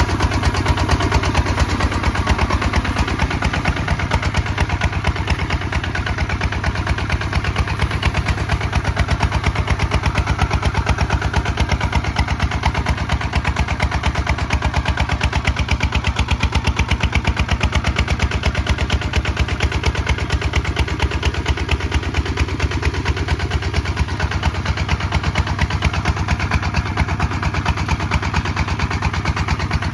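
Kubota ZT155 DI single-cylinder diesel engine running steadily while plowing, its firing strokes a rapid, even beat.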